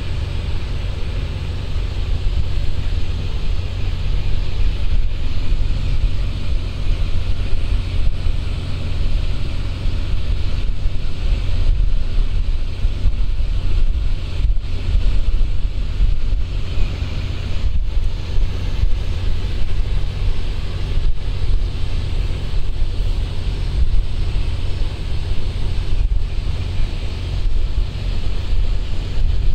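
Wind buffeting the microphone with a heavy, uneven low rumble, over a steady rushing hiss.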